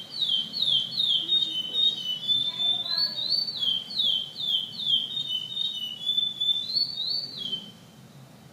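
Chestnut-bellied seed finch (curió) singing its pardo-style competition song: a fast run of clear whistled notes, each sliding down in pitch, stopping shortly before the end.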